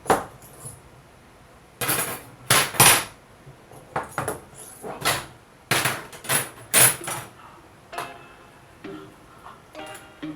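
Metal parts clanking and knocking: about a dozen sharp strikes at irregular intervals, some louder than others.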